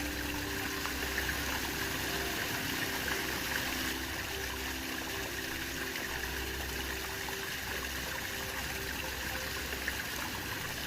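Waterfall water rushing steadily. Soft sustained music notes sound over it and fade out about two-thirds of the way through.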